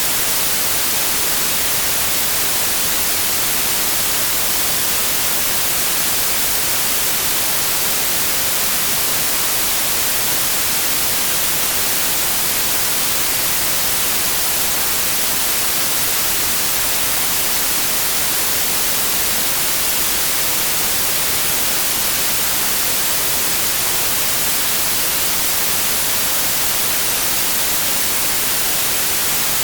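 Steady synthetic white noise: an even, unchanging hiss across all pitches, brightest in the highs.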